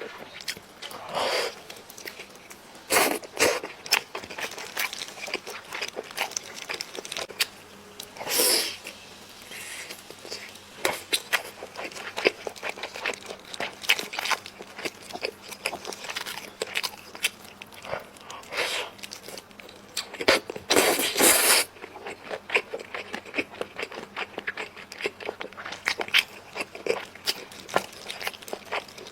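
Close-miked eating sounds: chewing and biting into spicy braised chicken, with many small wet clicks and a few louder noisy bursts.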